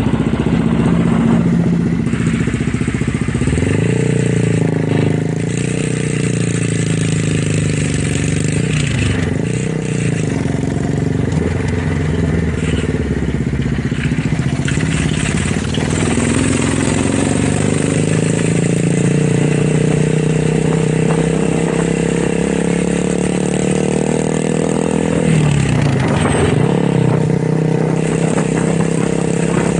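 Motorcycle engine and exhaust running under load, its pitch shifting as the throttle changes. The pitch climbs slowly for several seconds, dips sharply about 25 seconds in as with a gear change, then climbs again.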